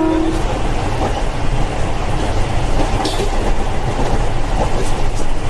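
A train horn's long steady note cuts off just after the start, leaving the loud, steady running noise of a train, mostly a deep rumble.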